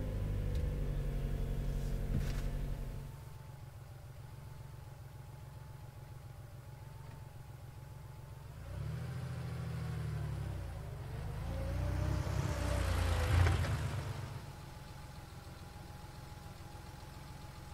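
Car engine running, heard from inside the cabin: loud for the first three seconds, then settling to a quieter idle, then rising again for a few seconds near the middle as it revs before settling back.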